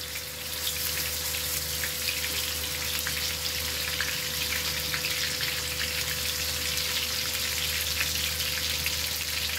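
Raw ground-beef hamburger patties frying in shallow cooking oil in a frying pan: a steady sizzle dotted with fine crackles, picking up slightly about half a second in as a second patty goes into the oil.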